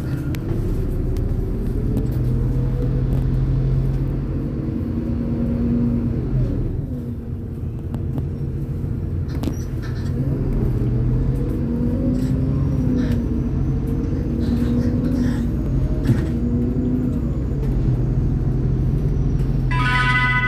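MAZ-203 city bus under way, heard from on board: its engine and drivetrain run steadily, with the pitch rising and falling as the bus speeds up and slows. A short electronic chime sounds near the end.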